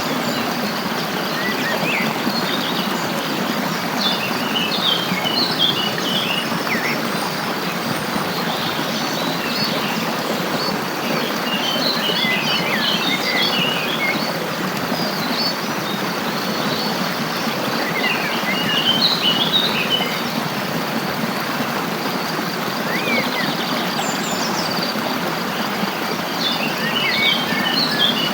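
Songbirds chirping in short clusters of quick high notes every several seconds over the steady rush of flowing water.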